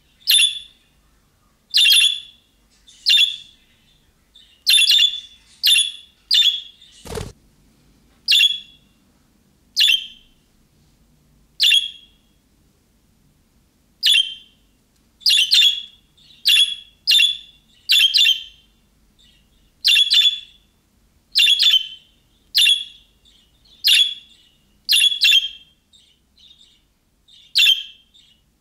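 Budgerigar repeating short, sharp contact calls, about one chirp a second with brief gaps, the kind of calling chirp meant to set other budgies answering. A single sharp click about seven seconds in.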